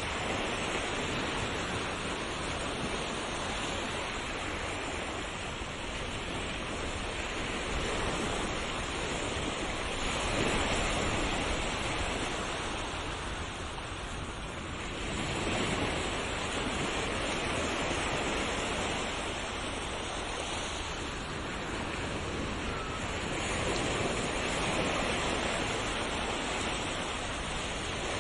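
Sea waves breaking and washing ashore: a continuous wash of surf that swells and eases in slow surges every several seconds.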